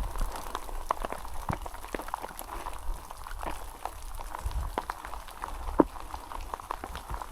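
Heavy rain, with many irregular sharp drops striking close by.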